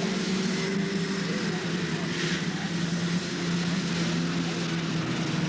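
Snowmobile engines running steadily at a low, even speed, their pitch sagging slowly lower.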